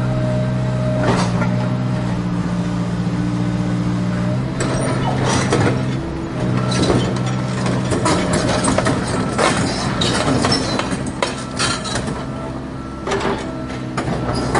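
Remote-control toy excavator working: a steady motor hum that breaks off briefly about five seconds in, with frequent clicks and scrapes from the plastic arm and soil.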